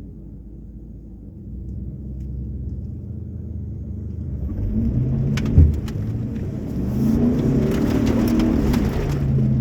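Pickup truck engine pulling through mud, revving harder and rising in pitch toward the end, with one loud thump a little past halfway and a scatter of clicks and spatter.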